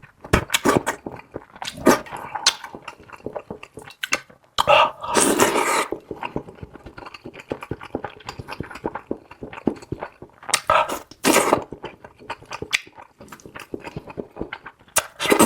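A person eating noisily: rapid wet chewing and lip-smacking clicks, with a few longer, louder sucking sounds of about a second each.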